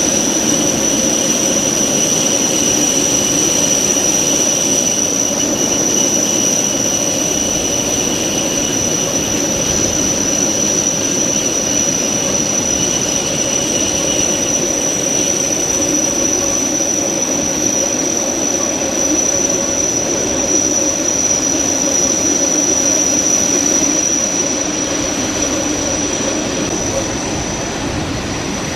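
Locomotive-hauled Matterhorn Gotthard Bahn passenger train running around a curve, heard from a coach window. Steady rolling noise with a high whine that holds throughout, and a second, lower whine that fades out about halfway.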